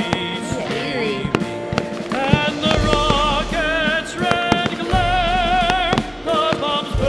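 Loud music with a wavering, sung-sounding melody over sustained bass notes, with fireworks bursting and cracking repeatedly through it.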